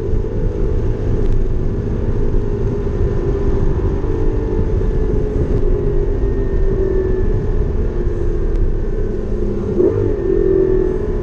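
Porsche 718 Cayman GT4's flat-six engine running at low, fairly steady revs with small rises and falls in pitch, over continuous tyre and road rumble, as the car is driven gently on its cool-down lap.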